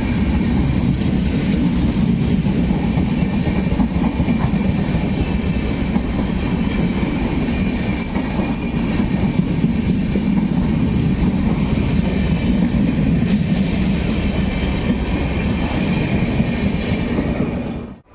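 Indian express train running at speed, a steady loud rush of wheels on rail. It cuts off suddenly near the end.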